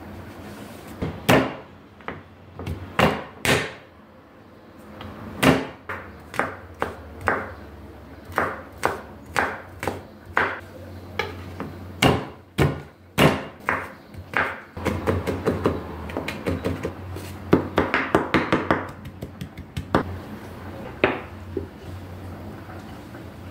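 A long run of irregular knocks and clatters, crowding closer together in the second half, over a steady low hum.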